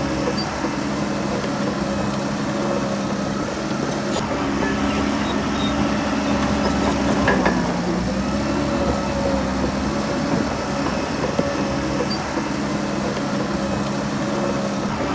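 Heavy earthmoving machine's diesel engine running steadily, its pitch dipping briefly about halfway through, with a sharp knock about four seconds in.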